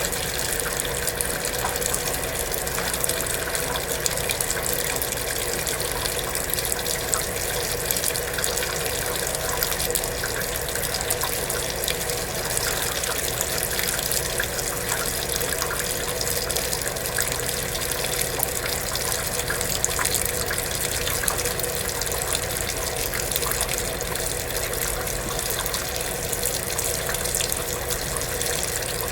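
Kenmore belt-drive portable washing machine filling from a sink faucet: a steady rush of water running into the tub, with a faint steady hum under it.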